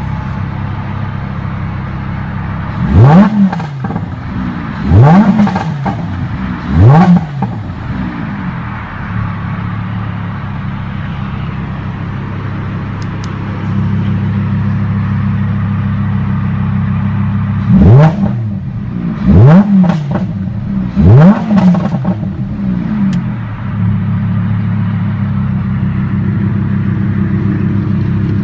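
Lamborghini Huracán's 5.2-litre naturally aspirated V10 idling while stationary and revved three times in quick blips, each a quick rise and fall in pitch. About halfway through the idle steps up louder, as the drive mode goes from Strada to Sport, and three more blips follow.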